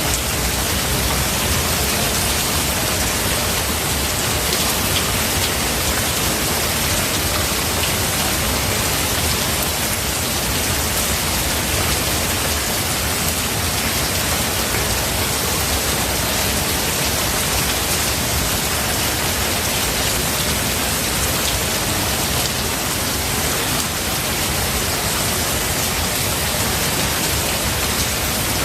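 Steady rain falling in a forest, an even hiss with no thunder.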